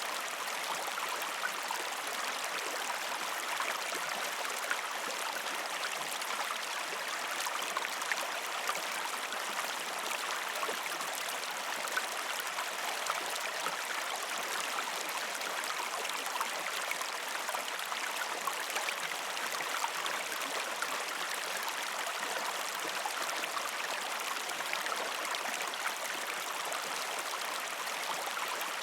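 A small river flowing over rocks: a steady rush of water, flecked with many small splashes and gurgles.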